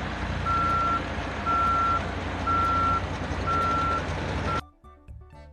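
Road roller's diesel engine running, with its reversing alarm beeping about once a second, each beep about half a second long. The sound cuts off suddenly near the end.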